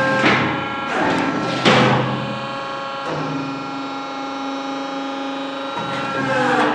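Hydraulic pressed-brick machine running with its oil system warming up: a steady machine whine, broken by several sudden clunks and hissing surges, with a falling sweep near the end.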